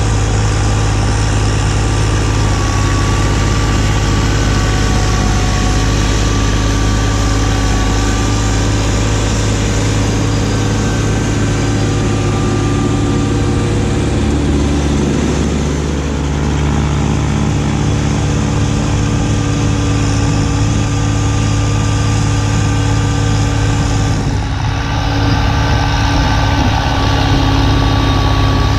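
Kubota B2601 compact tractor's three-cylinder diesel engine running steadily. Its low note shifts about halfway through, and the sound dips and changes briefly near the end.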